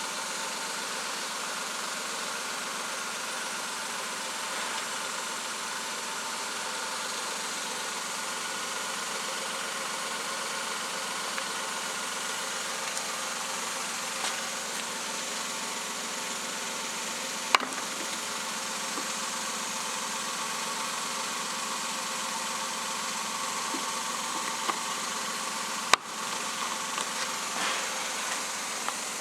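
Suzuki K6A three-cylinder engine idling steadily. Two sharp clicks stand out, one a little past halfway and a louder one near the end.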